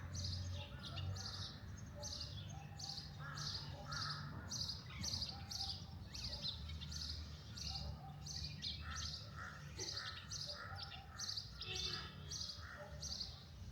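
Wild birds singing: one bird repeats a short high chirp about twice a second while other birds call lower down, over a steady low rumble of outdoor noise.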